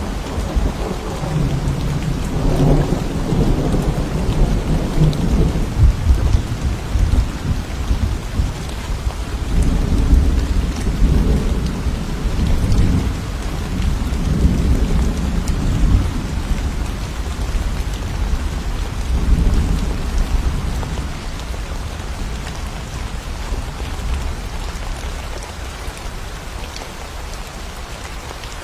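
Thunderstorm: steady rain falling with long rolling thunder that rumbles in several swells and dies away about three quarters of the way through, leaving the rain alone.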